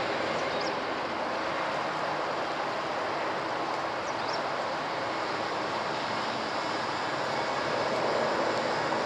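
Boeing 747-400 airliner flying over on its approach, its four jet engines making a steady, even roar.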